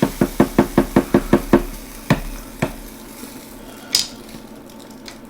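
Quick run of light taps, about six a second for a second and a half, then two single knocks and a short bright clink near the end, as cayenne pepper is tapped into a pot of simmering filling.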